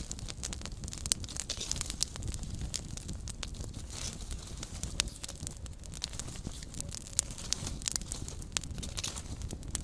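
Small campfire burning, with frequent sharp crackles and pops over a steady low hiss and rumble of the flames.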